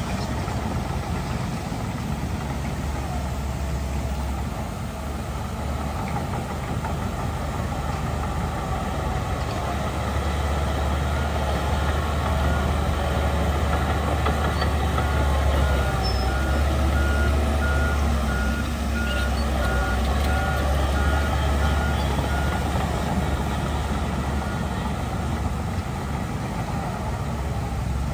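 Heavy diesel earthmoving machinery running steadily, loudest in the middle, with a reversing alarm sounding a regular series of short high beeps for several seconds about halfway through.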